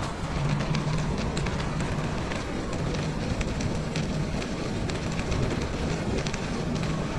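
Bicycle riding along a winter trail: a steady rush of wind and tyre noise, with many small clicks and rattles throughout.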